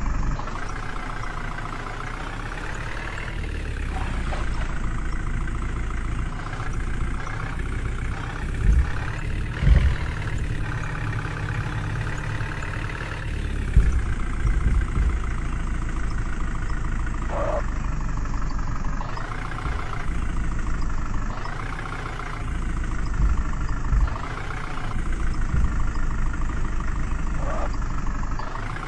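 Tractor diesel engine running, its pitch rising and falling several times as the throttle changes, with a few low thumps.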